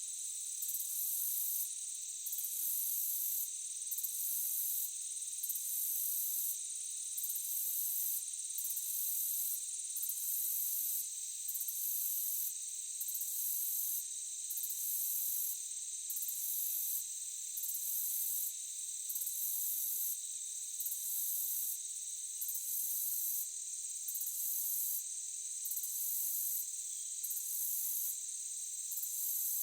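Insects chirping in a forest: a steady high-pitched buzz, with a still higher trill that pulses on and off about once a second.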